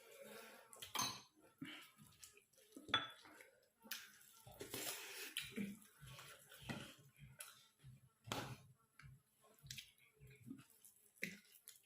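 Mukbang eating sounds: dishes and cutlery clinking in irregular knocks, with wet eating sounds in between.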